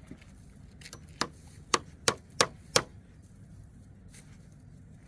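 A run of five sharp knocks, struck at an uneven pace over about a second and a half.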